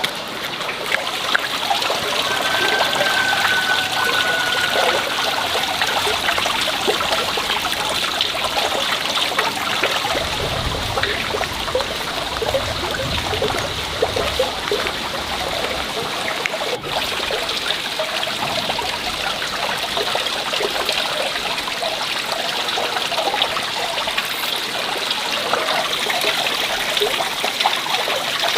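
Water running and trickling steadily, with a constant splashing patter.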